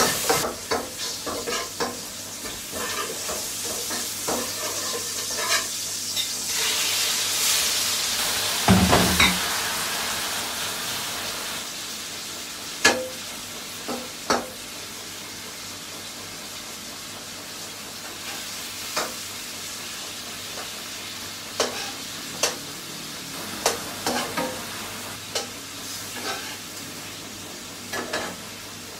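Shrimp with chilli and garlic frying in a wok on a gas burner, sizzling steadily as a spatula scrapes and taps the pan every second or two. The sizzling swells loudest about six seconds in, with a dull thud near nine seconds, then settles to a quieter, even sizzle. At the start a few sharp knocks come from a pestle in a clay mortar.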